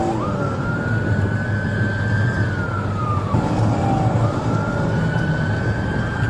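Police car siren on a slow wail, rising over about two seconds, falling, then rising again, over the steady rumble of a vehicle engine and road noise.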